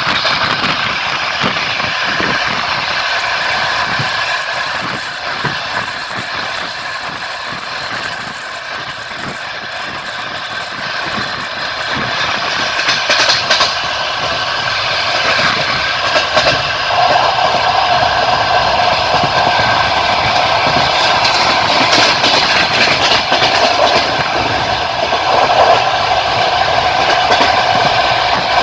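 Passenger train running along the rails: steady rolling noise of the wheels with rhythmic clicks from the rail joints. A steady high whine joins in a little past the middle.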